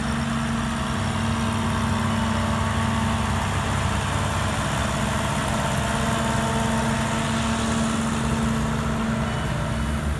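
Engines of vintage farm tractors running steadily at low speed as the tractors drive slowly past one after another.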